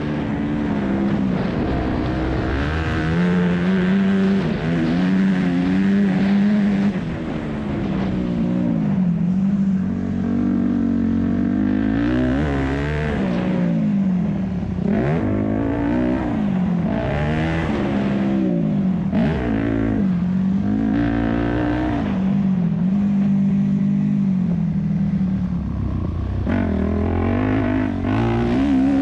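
Yamaha YZ250F's four-stroke single-cylinder engine at race pace, revving up and backing off over and over, its pitch rising and falling with throttle and gear changes.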